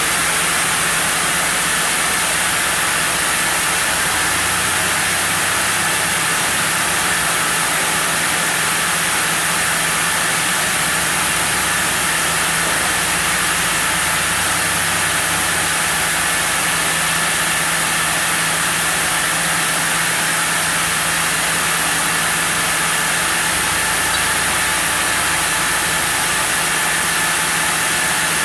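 Sawmill saw running steadily as it cuts through a block of zelkova hardwood: a loud, even mechanical noise with a high hiss and a steady whine.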